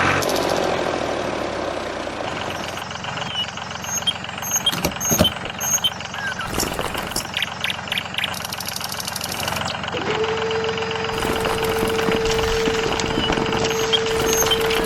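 A vehicle-like engine sound running steadily with scattered clicks; about two-thirds of the way in a steady tone joins it and drops in pitch at the very end.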